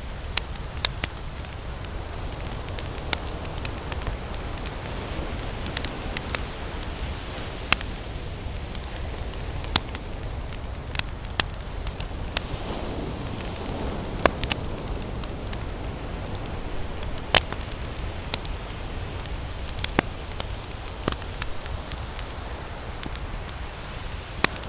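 Wood campfire crackling, with sharp irregular pops about once a second. Under it runs a steady low rush of surf.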